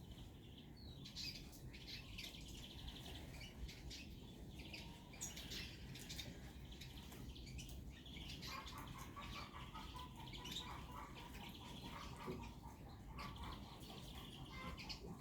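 Faint twittering and chirping of small finches, Eurasian siskins among them, getting busier about halfway through.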